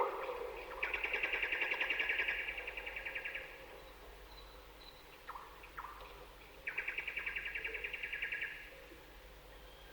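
Birdsong: two rapid trills, each lasting about two to three seconds, with two short chirps between them.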